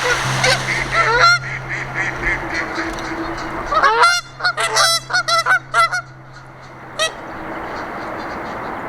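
A group of waterfowl calling: many short, repeated, pitched calls overlapping, densest about four to six seconds in, over a steady background hiss.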